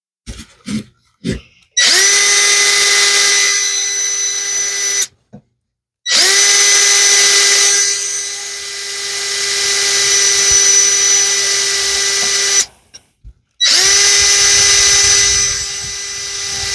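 Electric drill running in three bursts, a few seconds each with short pauses between, as holes are drilled into a wooden piece. Its motor pitch stays steady throughout, with a few light clicks before the first burst.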